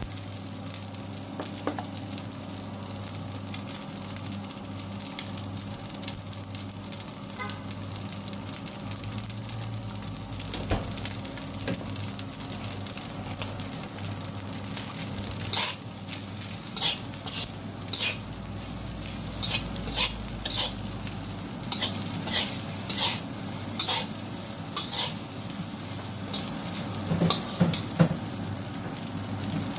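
Fried rice with shrimp sizzling in a hot metal wok while a metal spatula stirs it. From about halfway on, a run of sharper scrapes and knocks of the spatula against the wok.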